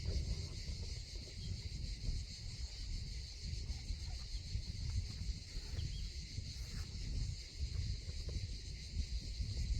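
Insects chirping steadily in a high, continuous drone, over a gusting low rumble of wind on the microphone.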